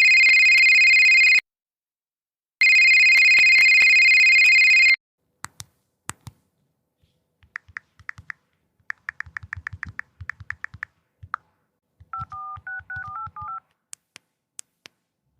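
Telephone ringing twice with a steady electronic tone. Then come a few iPhone clicks, a quick run of touchscreen keyboard taps, and about eight short touch-tone (DTMF) keypad beeps that step in pitch.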